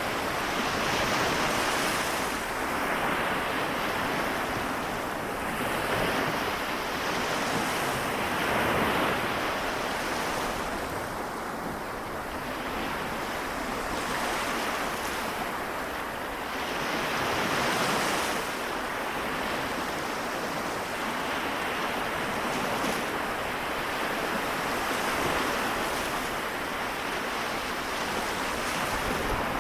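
Small waves of the Seto Inland Sea washing onto the shore, a continuous wash that swells and eases every few seconds.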